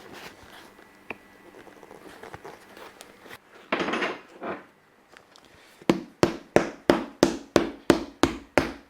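Hammer tapping a freshly cement-bonded rubber outsole onto a boot, about ten sharp, evenly spaced blows, roughly three a second, starting about six seconds in, pressing the lifting waist area down to set the glue. Before that, brief rustling handling of the boot.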